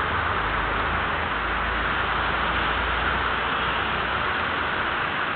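Steady city traffic noise, with a low rumble that eases off near the end.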